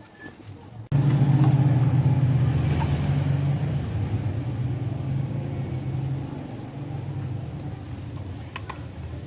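A car's steady low running hum that starts abruptly about a second in and slowly gets quieter, with a couple of light clicks near the end.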